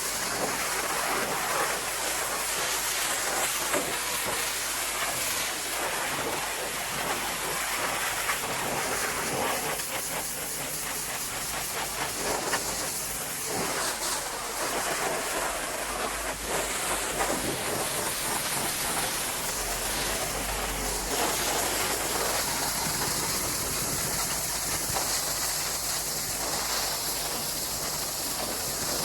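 Gas-engine pressure washer running, its water jet spraying against wood with a loud, steady hiss over the engine's low hum.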